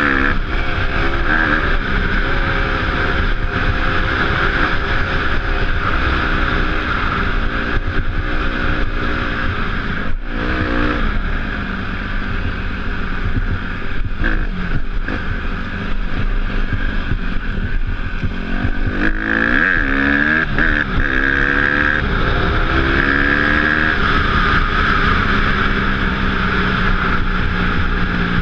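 Dirt bike engine revving up and down through the throttle as the bike is ridden, with steady wind rush on the microphone.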